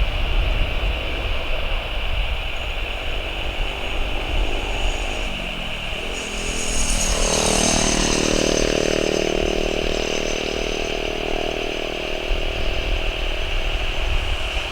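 Boeing 737-800 jet engines at takeoff power as the airliner passes. The sound swells about six seconds in, with a high whine peaking around seven seconds, then settles into a steady loud engine noise.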